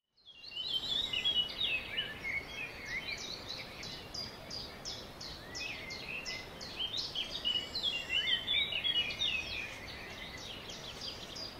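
A chorus of birds chirping, with many short high notes and quick falling whistles overlapping, over a low steady background hiss. It fades in from silence at the start.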